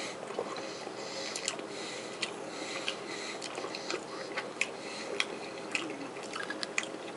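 A person chewing a bite of buffalo-style cheese-filled smoked sausage close to the microphone: soft, irregular mouth clicks about once or twice a second over a steady background hum.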